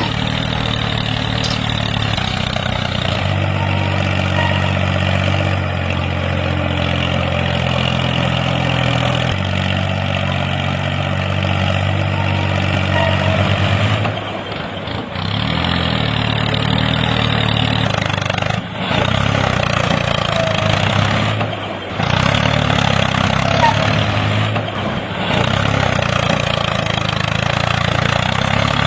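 A mini tractor's engine sound running steadily, with a low even drone and several short dips in the second half.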